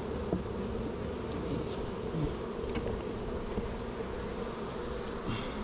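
Honeybees buzzing steadily in a dense, continuous hum around an opened hive.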